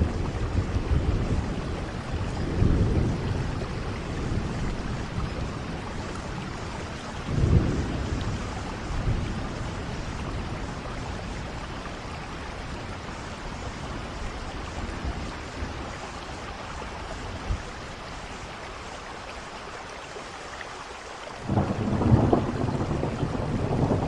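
Steady rain with rolling thunder: low rumbles about two and seven seconds in, then a louder clap of thunder that breaks in suddenly near the end.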